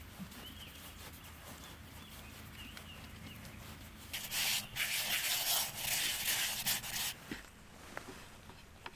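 Coarse scraping strokes, loud and rough, lasting about three seconds and starting about four seconds in, after a few quiet seconds.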